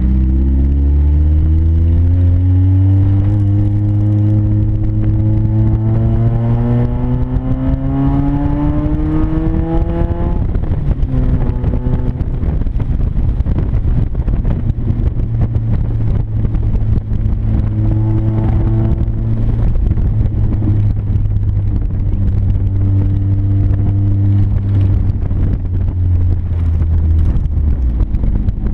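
1996 Mazda Miata's 1.8-litre four-cylinder running loud through a deliberate exhaust leak between the catalytic converter and mid-pipe, with the exhaust effectively disconnected. The engine note climbs in pitch for about ten seconds under acceleration, then drops and settles into a steady low rumble at highway cruise.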